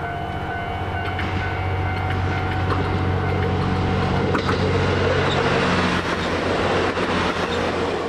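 A train running close by, its noise building over the first few seconds to a loud, steady rumble with a low hum. The wheels clack over rail joints a few times.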